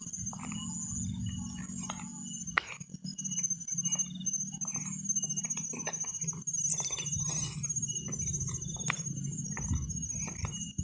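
Insects chirping and trilling high-pitched and steadily, over a low steady hum, with scattered small clicks and knocks.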